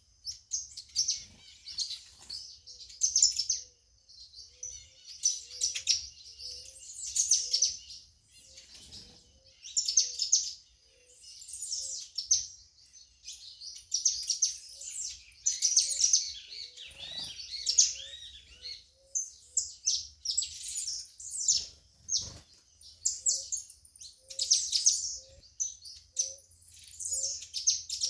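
A dawn chorus of several songbirds chirping and singing in dense, overlapping phrases, with a soft low note repeating about twice a second underneath for long stretches.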